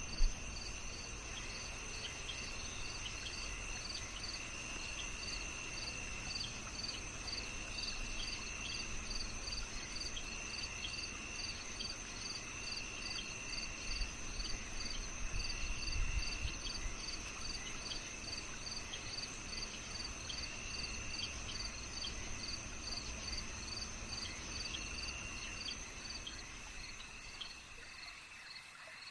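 Night chorus of crickets: a steady high trill, regular short chirps about two to three a second, and a lower trill that comes and goes.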